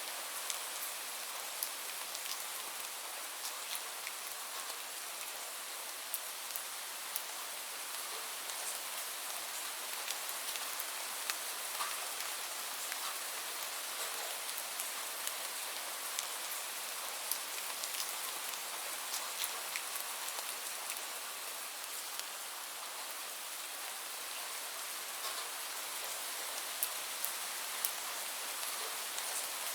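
Steady rain falling on a surface, with individual drops ticking sharply throughout.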